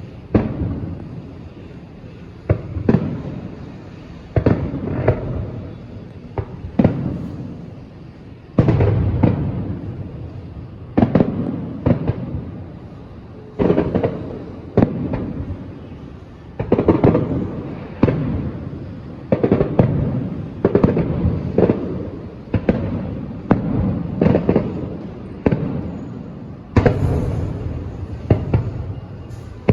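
Aerial fireworks bursting one after another, a sharp boom every one to two seconds, each trailing off in a rolling echo. A crackling, hissing burst comes near the end.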